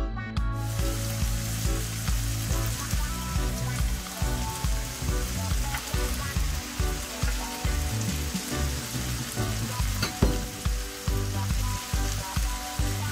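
Saltfish, peppers and onions frying in oil in a stainless-steel pan, sizzling steadily while a spoon stirs and turns them. The sizzling comes in about half a second in as music stops, and there is one sharp tap about ten seconds in.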